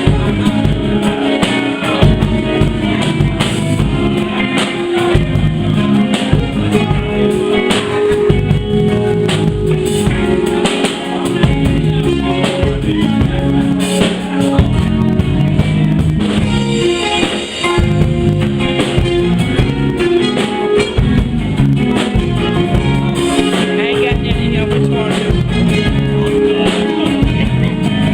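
Live band playing a song: drum kit keeping a steady beat under guitar, with some singing.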